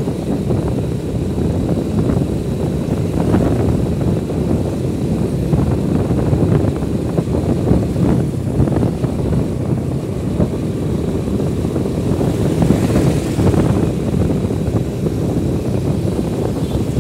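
Steady wind rush on the microphone with vehicle road noise beneath it, as heard while riding a motorcycle.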